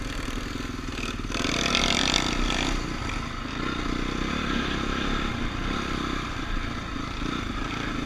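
Dirt bike engine running, with a brief louder, rougher burst about one and a half seconds in.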